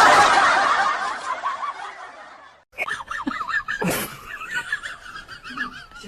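Laughter: a loud burst of laughing that fades away over about two and a half seconds, then a second, quieter run of quick, wavering snickers.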